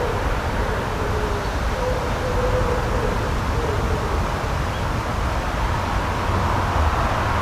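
Steady outdoor background rush with a low rumble and a faint wavering hum in the first few seconds.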